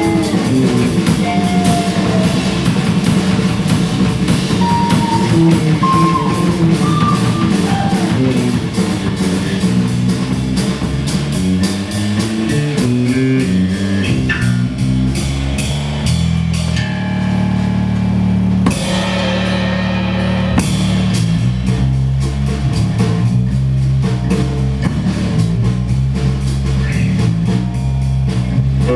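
A live band playing an instrumental rock-blues passage: a guitar plays lead lines over bass and drum kit.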